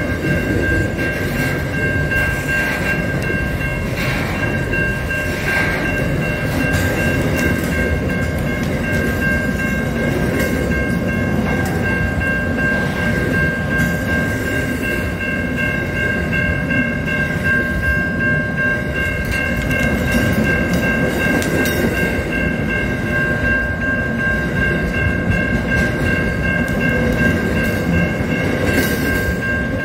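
Container freight train's wagons rolling past at a level crossing with a steady low rumble. A few steady high-pitched ringing tones sound over it.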